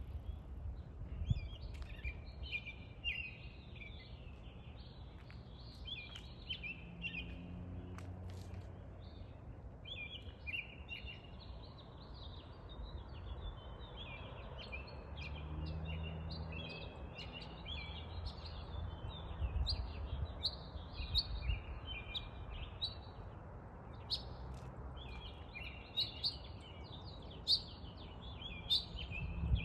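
Songbirds chirping and twittering, many short calls overlapping throughout, over a steady low background rumble that swells twice.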